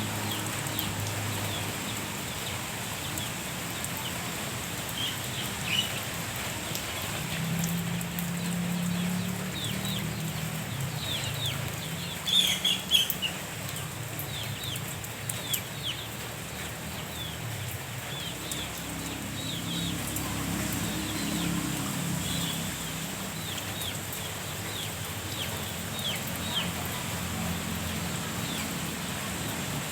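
Steady rain falling, with birds calling in short falling chirps throughout and a louder burst of calls about twelve seconds in.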